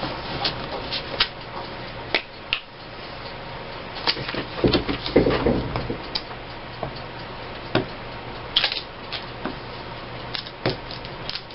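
Paper cutouts and craft supplies being handled on a table for gluing: scattered light taps, clicks and rustles, with a brief pitched sound and a burst of busier handling about five seconds in.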